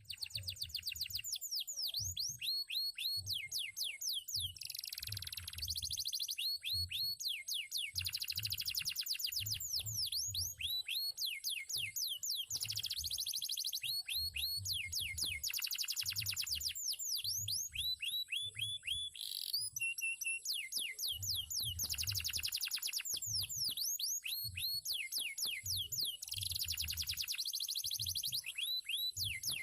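Male domestic canary singing a long, continuous song of fast rolling trills and rapid downward-sweeping whistled notes, with barely a pause.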